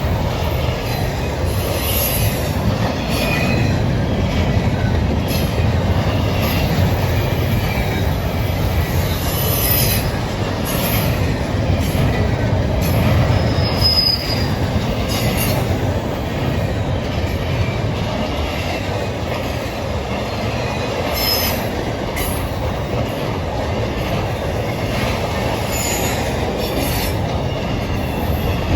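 Train cars rolling past on the rails: a continuous low rumble with repeated wheel clicks and brief high-pitched wheel squeals.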